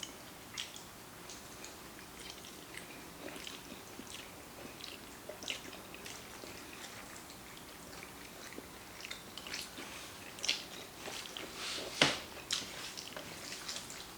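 Close-up mouth sounds of eating black bean noodles: quiet chewing with scattered wet clicks and smacks, a sharper, louder one about twelve seconds in.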